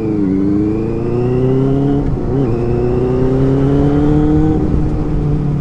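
Benelli 600i's inline-four engine pulling under acceleration while riding, its pitch climbing steadily, dropping briefly at an upshift about two seconds in, then climbing again before easing off near the end.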